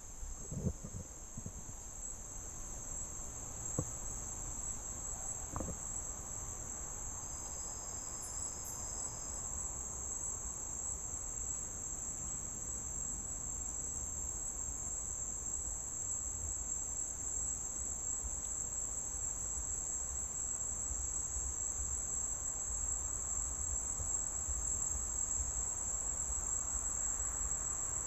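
Crickets chirring in one steady, unbroken high-pitched trill, with a soft low rumble underneath and a few faint knocks in the first six seconds.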